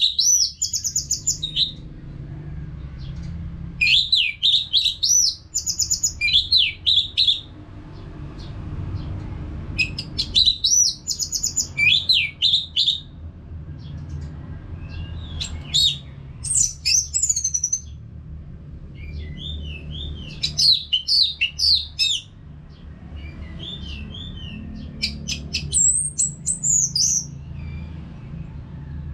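Orange-headed thrush singing in phrases of varied whistled notes and fast trills, a new phrase every few seconds, over a steady low background rumble.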